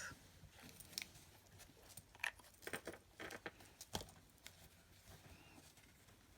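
Faint handling sounds at a craft desk: a few light taps and rustles of card and paper, scattered over the first four seconds, then quiet room tone.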